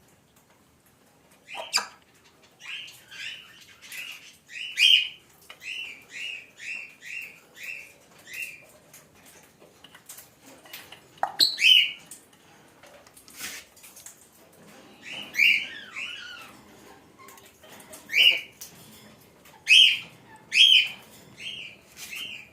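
Pet parrot calling in short, repeated squawks: a run of about a dozen evenly spaced calls, then scattered single and paired calls, with a few sharp clicks between them.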